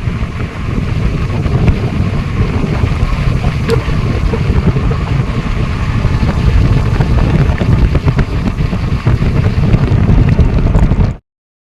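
Rushing roar of the Budha Ghagh waterfall, with wind buffeting the microphone in uneven low gusts; the sound cuts off suddenly near the end.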